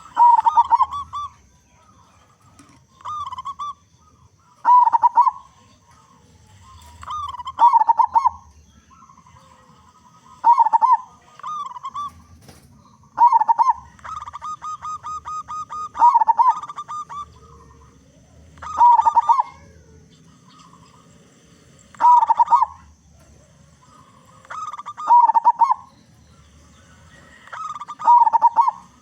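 Zebra dove (perkutut) cooing in short, rolling phrases repeated about every three seconds. Halfway through, one phrase carries a quick run of rapid notes.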